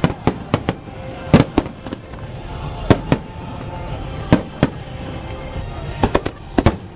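Aerial fireworks bursting in a series of sharp bangs, about a dozen, often two in quick succession, with music playing underneath.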